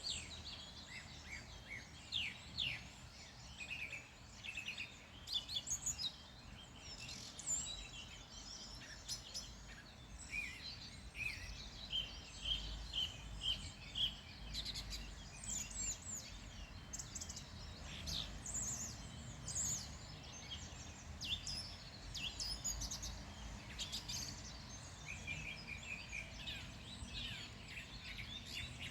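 Several wild birds singing and calling, with many short chirps and quick trills overlapping, over a low steady outdoor rumble.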